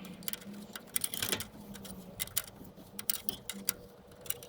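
Irregular small clicks and taps of hand tools working on a tractor's hydraulic line fitting, with a faint steady hum underneath.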